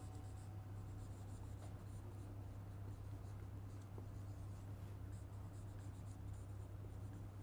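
Faint scratching of writing strokes on a writing surface, coming in short runs, over a steady low electrical hum.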